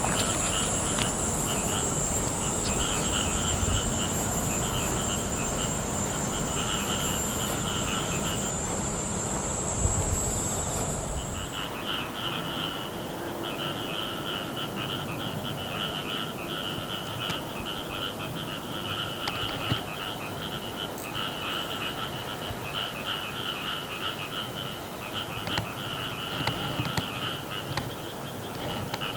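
A chorus of animal calls pulsing steadily in rapid trains. A steady high-pitched drone runs beneath them and stops about eleven seconds in.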